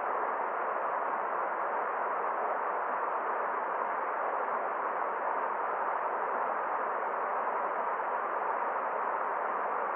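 Forest stream flowing: a steady, unbroken wash of running water.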